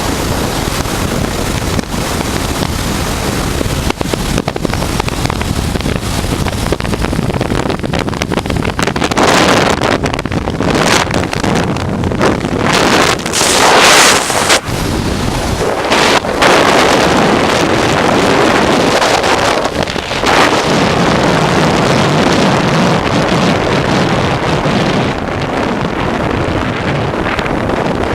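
Wind rushing over the microphone of a moving motorcycle, with the Honda Transalp's 600 cc V-twin engine running underneath. The wind noise swells louder for several seconds around the middle.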